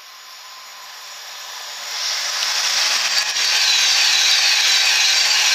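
Tilting high-speed passenger train passing at speed: a rushing noise of wheels on rail and air that swells from faint, jumps up about two seconds in as the train comes alongside, and stays loud.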